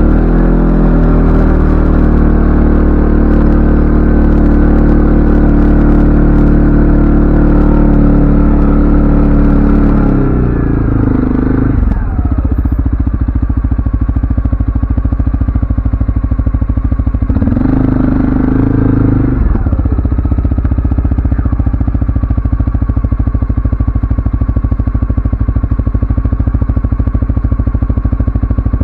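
CFMoto ATV engine running under way, steady for about ten seconds and then easing off to a lower note. It picks up briefly around eighteen seconds and again near the end.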